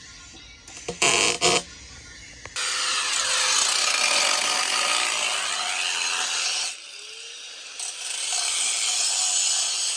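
Power tool cutting exhaust pipe: a few short knocks, then a steady cut lasting about four seconds. It stops briefly and starts cutting again near the end.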